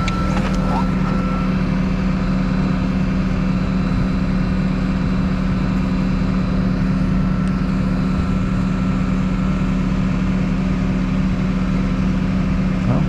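Tow truck engine running steadily, an even hum.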